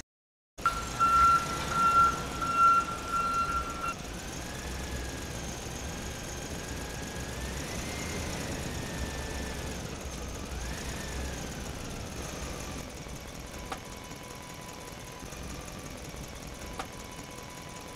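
Tractor engine sound effect running with a steady low rumble, its pitch rising and falling as if revving. In the first few seconds a loud high beeping tone, like a reversing alarm, plays over it.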